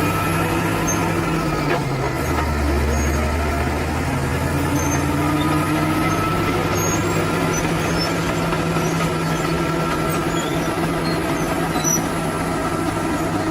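Bulldozer's heavy diesel engine running steadily, its note shifting lower for a couple of seconds about two seconds in, with a faint whine above it.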